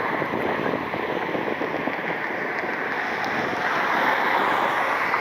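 Jet airliner engines at takeoff power, a steady rushing noise without a clear pitch that holds at much the same level throughout.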